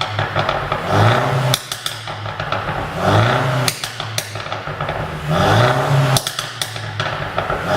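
Mercedes-Benz E200 Cabriolet's turbocharged four-cylinder engine blipped three times, each rev followed by a rapid string of exhaust pops and crackles as the throttle closes: the overrun crackle of a pop-and-bang ECU tune.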